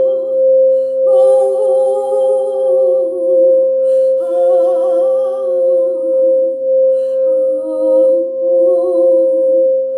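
A singing bowl holds one steady ringing tone while a voice hums wordless, wavering phrases over it: three long phrases with short pauses between, plus the tail of one at the very start.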